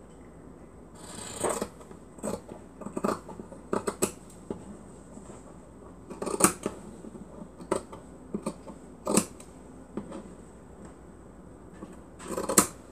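Scissors snipping fabric in irregular single cuts, with a couple of short rustles of cloth being handled, about a second in and again near the end.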